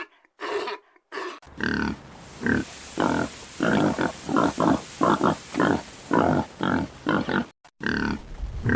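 An animal grunting in a run of short, repeated calls, about two a second, over a steady background hiss, with a few shorter calls from another recording in the first second or so.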